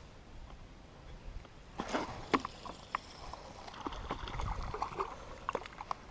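Water splashing and sloshing beside a kayak, with scattered sharp clicks and knocks, starting about two seconds in: a hooked crappie thrashing at the surface as it is reeled up to the boat.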